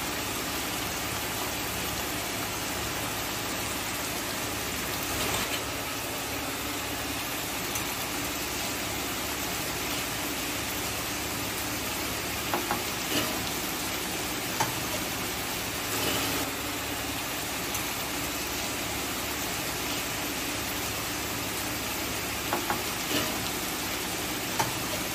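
Sliced onions and spices frying in oil in a non-stick kadai, a steady sizzle, with a wooden spatula stirring and knocking against the pan several times.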